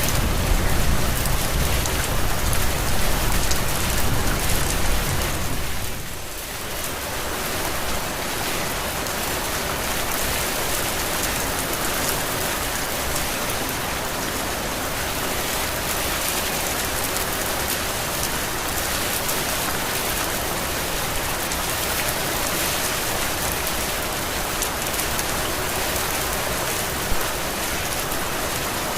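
Steady heavy rain pouring and pattering on surfaces, with a low rumble under it for the first six seconds or so that then drops away. One sharper drop tap stands out near the end.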